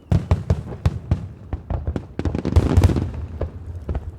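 Fireworks display: a rapid series of sharp bangs and crackles from bursting shells, densest and loudest a little past halfway.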